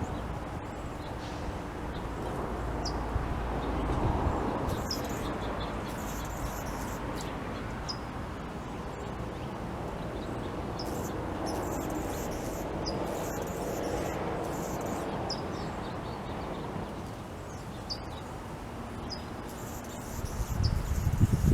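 Birds chirping: short, high chirps every second or so over a steady outdoor background hiss.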